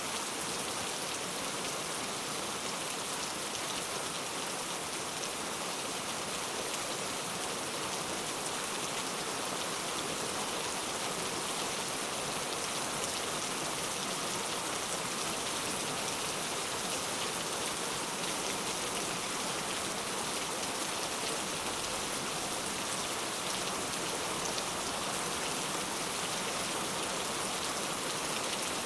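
Steady rain falling, an even hiss of many small drops pattering on a surface, with no change in intensity.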